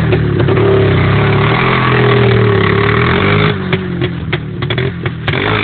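Motorcycle engine running loudly, its pitch wavering a little, then dropping off about three and a half seconds in, with a few sharp clicks after.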